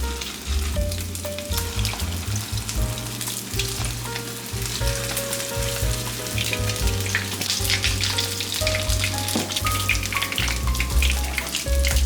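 Food sizzling and crackling as it fries, over background music with a low bass line and a simple melody.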